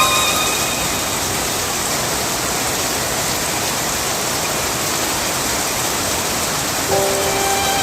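Steady rain falling, an even rushing noise with no break, joined by music notes near the end.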